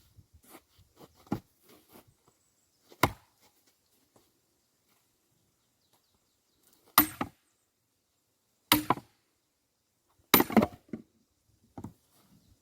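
An axe chopping firewood logs: four sharp, separate strikes a few seconds apart, with a few faint knocks between them.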